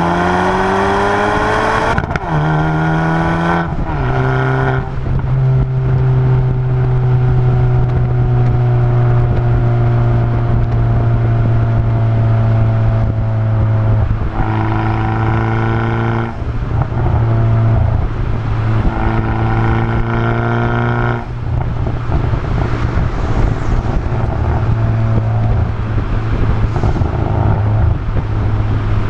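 Exhaust of a 2020 N Line car with its muffler deleted: the revs climb in the first couple of seconds, then settle into a steady drone that slowly sinks in pitch. The engine note shifts a few more times later on.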